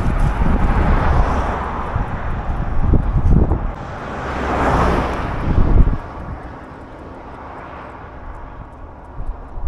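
Two vehicles passing by on a road, each a rushing sound that swells and fades, the louder one about five seconds in. Wind buffets the microphone with low gusty rumbling for the first six seconds.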